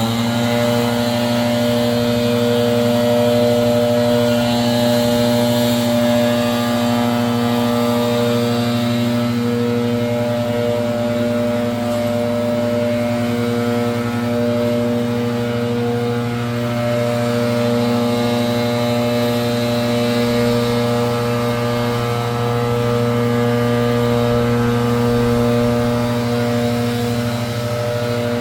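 Gas leaf blower running steadily at high throttle: a loud, constant engine drone.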